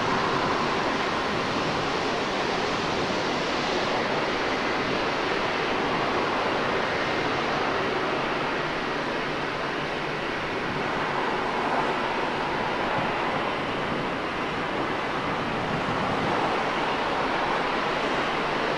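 Jet airliner engines running steadily, heard as a continuous rush with a faint high whine, mixed with wind on the microphone.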